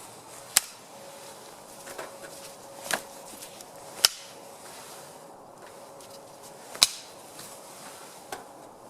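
Dry sticks being snapped by hand for kindling: four sharp wooden cracks spaced one to three seconds apart, with a smaller one near the end.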